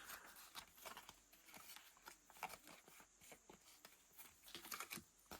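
Near silence with faint taps and rustles of photo cards being handled and sorted by hand, a few slightly louder clicks near the end.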